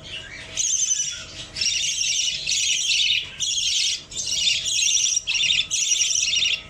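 A baby budgerigar calling in repeated raspy, rapidly pulsed chirping bursts, each lasting about half a second to a second, with short gaps between them.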